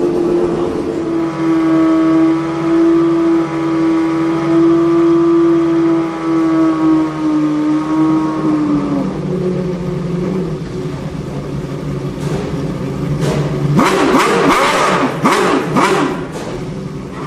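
Lamborghini Murciélago R-SV GT1's V12 race engine running at a steady high pitch, which drops lower about nine seconds in. Near the end come rapid revs rising and falling in quick succession, with sharp pops.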